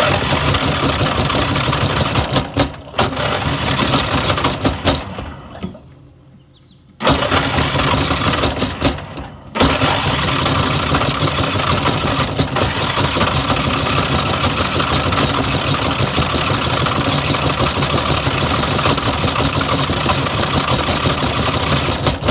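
Small lawn mower engine starting abruptly through a starter hot-wired around a dead solenoid, running and then dying away after about five seconds. It fires up again a second later, stumbles, then runs steadily for over ten seconds before cutting out at the end.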